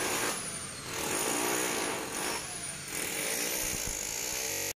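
A power tool running in bursts of about a second with short dips between them, with falling high whines.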